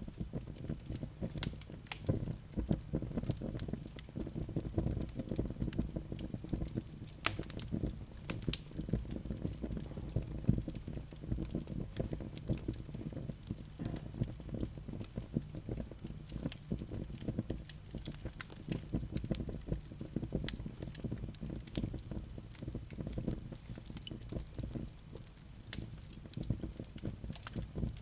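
Wood fire burning in a fireplace, crackling: frequent sharp pops and snaps over a steady low rumble of flames.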